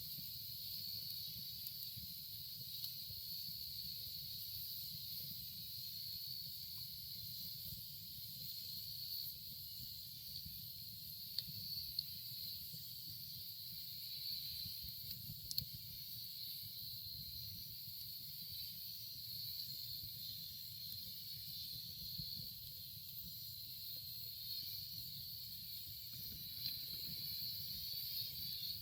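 Wood campfire burning with a steady low rush and a constant high hiss, with a few sharp crackles and pops around the middle.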